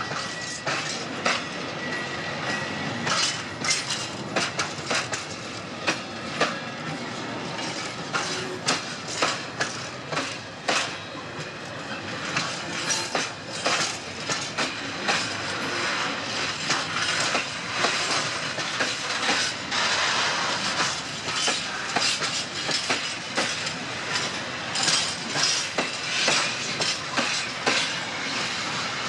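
Freight wagons rolling past at close range, their steel wheels clacking over the rail joints in an uneven stream of clicks and knocks over a continuous rumble.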